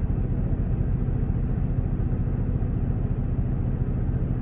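Truck engine idling: a steady low hum.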